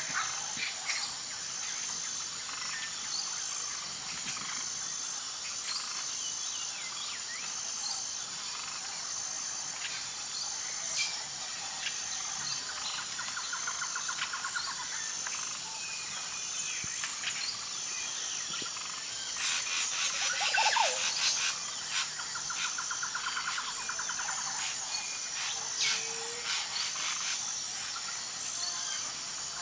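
Tropical forest ambience: a steady, high pulsing insect drone under many bird calls, chirps and rattling trills. A louder burst of sharp calls comes about two-thirds of the way through.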